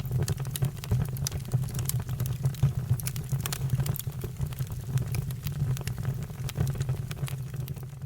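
Fire burning with frequent sharp crackles and pops over a steady low rumble.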